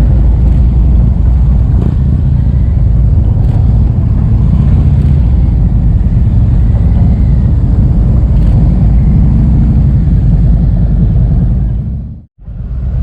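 Motorcycle running under way, a loud steady low rumble mixed with wind buffeting the microphone; the sound drops out abruptly for a moment near the end.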